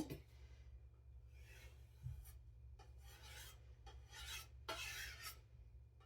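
Chef knife edge being stropped: a handful of faint, light rasping strokes, about one a second, to put a final touch on the freshly sharpened edge.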